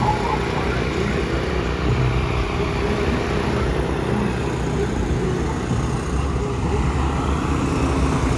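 Car engines running, heard as a steady low rumble amid outdoor street noise.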